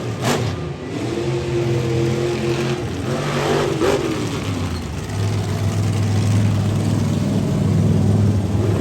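Monster truck engine running and revving, with a couple of short sharp bursts early on, then settling into a steady low drone for the second half.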